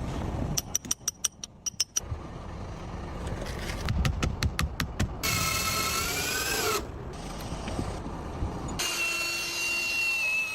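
Building-work sounds in short edited pieces: a quick run of clicks or taps, then a power tool whining twice. The first whine rises and falls in pitch; the second is a steady high whine near the end.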